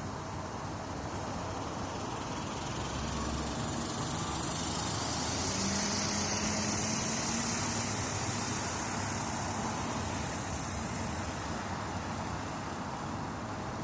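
Aircraft tow tractor's engine running steadily while towing a Boeing 747 freighter, under a broad hiss that swells about halfway through and eases off again.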